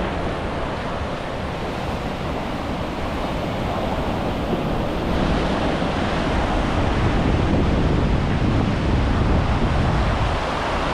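Sea surf washing onto a beach with wind buffeting the microphone, a steady rush that swells a little about halfway through.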